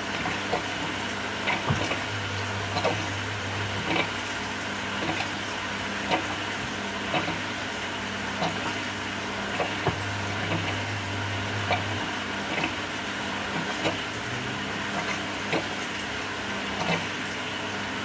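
Samsung 6.5 kg top-loader washing machine running its quick cycle: a steady machine hum with the motor's low hum coming on in runs of about two seconds, and scattered light clicks and knocks.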